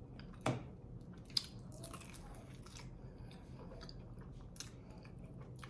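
Mouth biting into a crisp fried samosa dipped in sauce, with two sharp crunches in the first second and a half, then chewing with small wet clicks and crackles.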